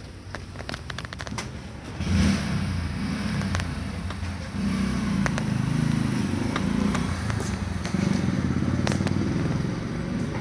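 A vehicle engine running with a low rumble that comes in about two seconds in and grows louder a couple of seconds later. Scattered clicks and rattles run over it.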